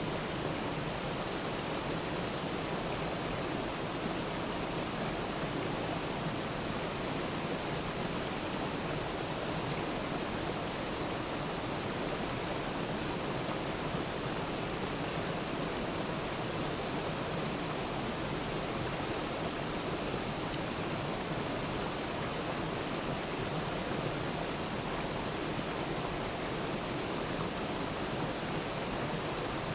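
Waterfall: a steady rush of falling water, an even hiss that holds without change.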